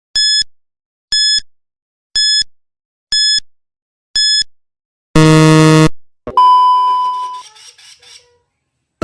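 Countdown sound effect: five short electronic beeps about a second apart, then a loud harsh buzzer lasting a bit under a second, followed by a struck ringing tone that fades away over about two seconds.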